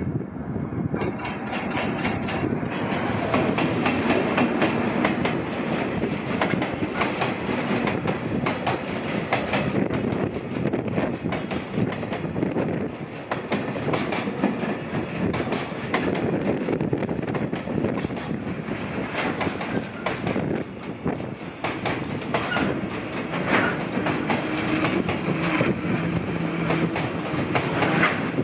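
Freight train hauled by an EF210 electric locomotive running past, its wagon wheels clattering steadily over the rail joints.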